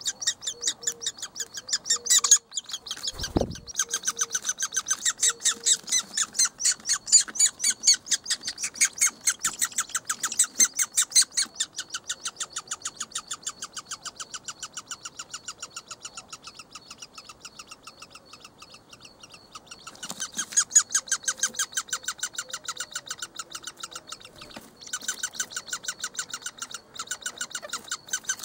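Woodpecker nestling begging in the nest hole: a rapid, unbroken run of harsh, squawking chirps, which fades for a while and grows loud again about twenty seconds in. A single low thump about three seconds in.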